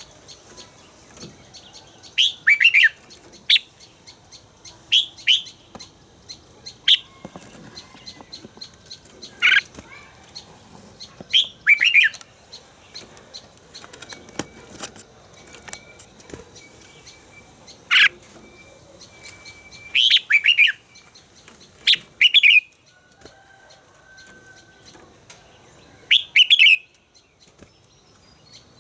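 Red-whiskered bulbul singing short, loud, sharp whistled phrases, repeated every second or few, with fainter chirps between them.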